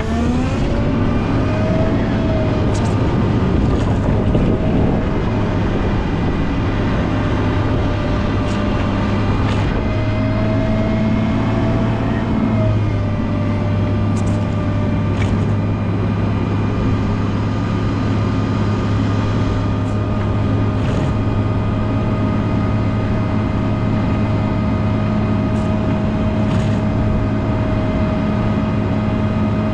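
Volvo L90H wheel loader's diesel engine running steadily under load, with a steady whine over the engine note. The revs climb just after the start and the pitch shifts about twelve seconds in.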